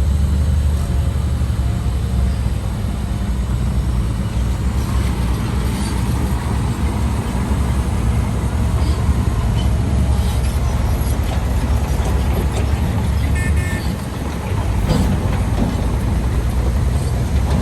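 Heavy diesel engines of a crawler bulldozer and dump trucks running steadily with a deep rumble, with a few light knocks and a brief high tone about thirteen seconds in.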